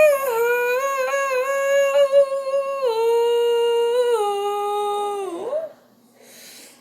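A high voice singing long held notes without words, starting high and stepping down through a few lower notes, ending about five and a half seconds in with a short upward slide, followed by a faint breath.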